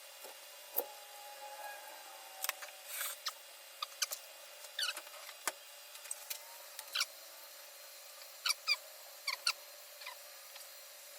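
Hand tools and metal engine parts being handled: sparse, irregular clicks and light knocks with short squeaks.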